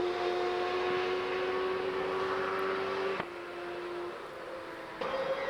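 Superbike engine running at high revs, holding one steady pitch. It cuts off abruptly about three seconds in to a quieter engine tone, and a louder, higher engine note cuts in near the end.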